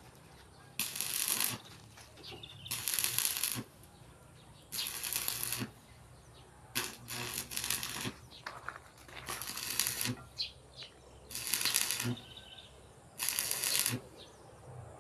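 Slow, regular scraping strokes on a shovel, about one every two seconds, each a short rasping hiss of less than a second.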